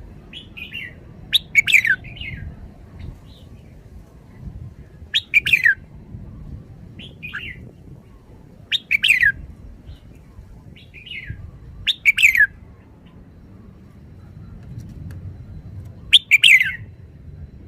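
Red-whiskered bulbul singing: five short, loud song phrases about three to four seconds apart, with softer single notes in between.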